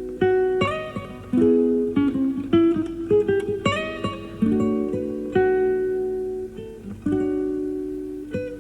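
Solo classical guitar playing live: plucked notes and chords, each ringing and fading before the next, recorded off an FM broadcast onto cassette tape.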